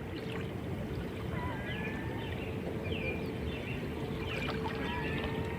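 Shoreline ambience at a cove: water washing gently in a steady low wash, with small birds chirping in short, scattered calls throughout, over a faint steady hum.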